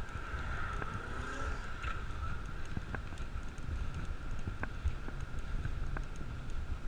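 Wind buffeting the microphone and road rumble from a bicycle being ridden, with a few sharp clicks scattered through.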